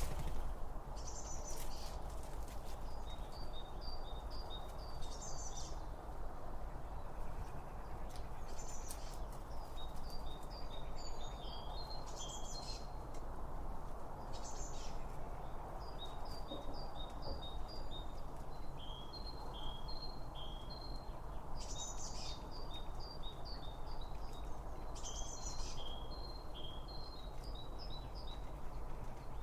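Songbirds calling: repeated runs of short, high chirps, with a brief higher call every few seconds, over a steady low background rumble.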